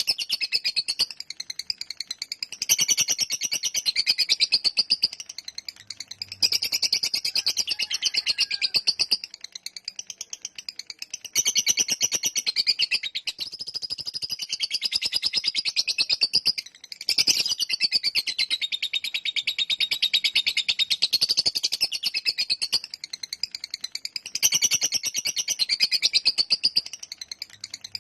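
Lovebird singing its long 'ngekek' chatter: long runs of rapid, high, sharp chirps strung into a continuous trill, broken by a few short pauses.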